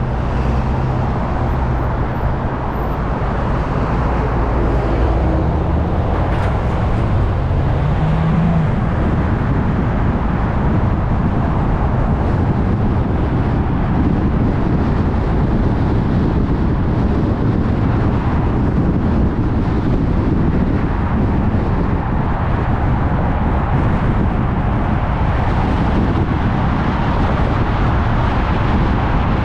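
Car driving on a freeway: steady tyre and road noise with a low engine hum. A low tone rises briefly about eight seconds in, then the rumble of the road carries on evenly.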